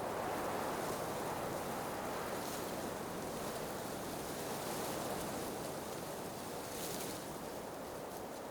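Howling blizzard wind: a steady rushing, with three brief hissing gusts on top.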